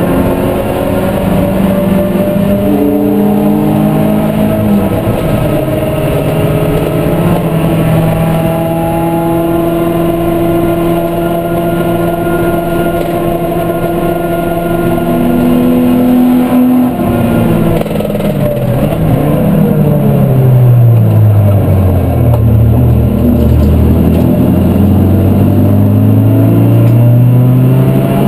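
Supercharged 1.6-litre Toyota 4A-GZE twin-cam four-cylinder racing engine heard from inside the Corolla's cabin, running loud at steady high revs. About two-thirds of the way in the revs fall steeply for several seconds as the car slows, then climb again near the end as it accelerates.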